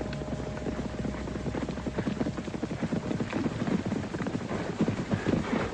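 Hoofbeats of several horses on hard ground, a dense, irregular clatter that grows louder and then eases near the end.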